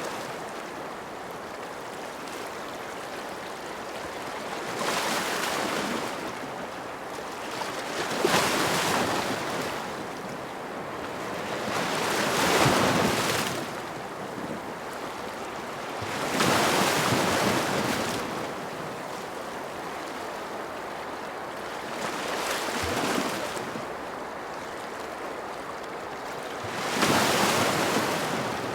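Ocean waves breaking and washing on a shore, a steady hiss of surf that swells with each wave about every four seconds.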